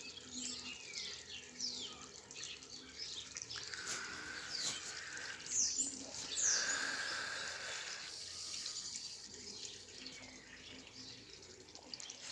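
Birds chirping: many short, quick, falling calls from several birds, the loudest pair about six seconds in.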